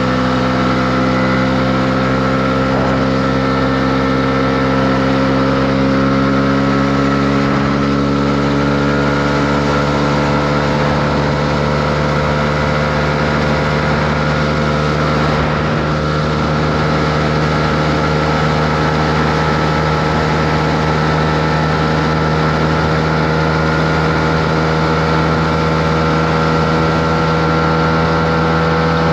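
Honda CB125R's single-cylinder engine running at a steady cruise, its pitch creeping slowly upward as the revs rise a little, over a steady rush of wind and road noise.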